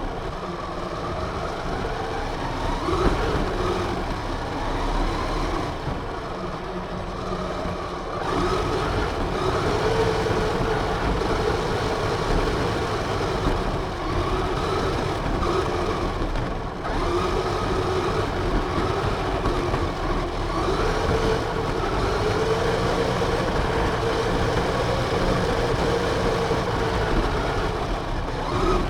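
Radio-controlled car's motor running, its whine rising and falling in pitch with the throttle over steady rushing noise, with brief let-offs about eight and sixteen seconds in.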